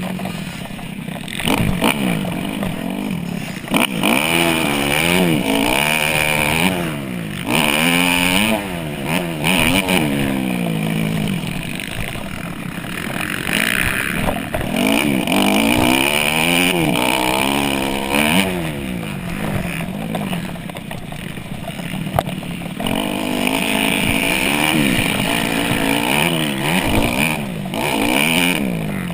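Dirt bike engine racing, its revs climbing and dropping again and again.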